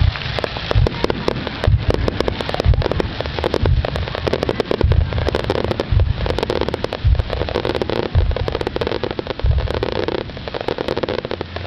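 Fireworks display: aerial shells bursting in a rapid barrage, deep booms about twice a second over a dense crackle.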